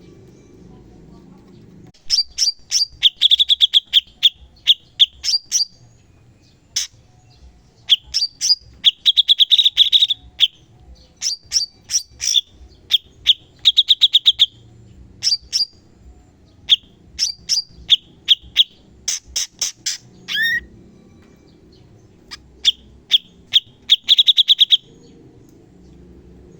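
Cucak cungkok singing in rapid bursts of sharp, high chipping notes and short fast trills, broken by brief pauses. It starts about two seconds in and stops about two seconds before the end.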